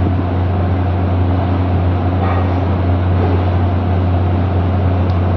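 A steady low hum with an even rushing noise over it, unchanging throughout.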